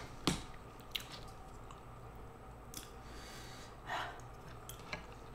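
Soft close-up eating sounds: chewing and mouth noises with a few sharp clicks, likely wooden spoons on a metal tray, and a breath about four seconds in.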